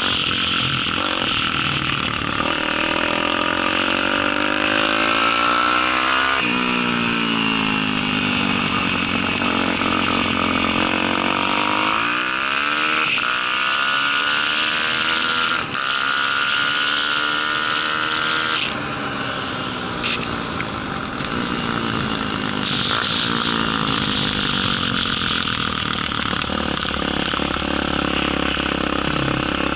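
Daytona 190 four-stroke pit bike engine heard onboard under racing: the revs climb, drop sharply at each gear change, and fall away when the throttle is shut, several times over.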